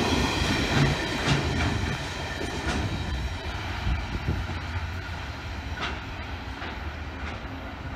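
Freight train of empty flat wagons rolling away, with a steady rumble and occasional sharp wheel clacks over rail joints, fading as the train recedes.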